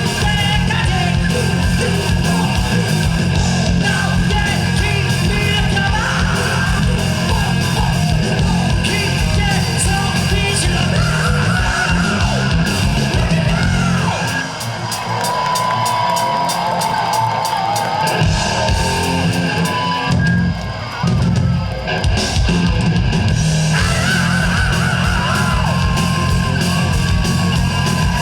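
Live heavy metal band playing loud, with electric guitars, bass and drums and a high, strained vocal line. About fourteen seconds in, the bass and drums drop away for a few seconds while a high melodic line carries on, then the full band comes back in.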